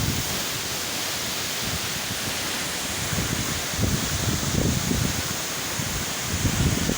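Waterfall with a steady rush of falling water, plus a few brief low rumbles about three to five seconds in and again near the end.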